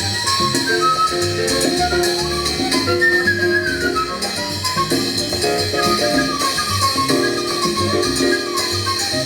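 Latin jazz ensemble playing live, with a melody winding up and down above lower accompanying notes.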